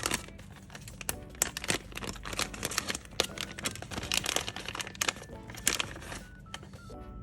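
Packaging crinkling and small clicks from handling, a dense irregular crackle over quiet background music.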